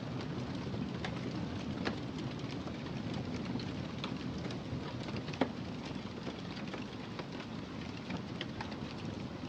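Wood fire crackling steadily, with scattered small pops and one sharper pop a little past halfway.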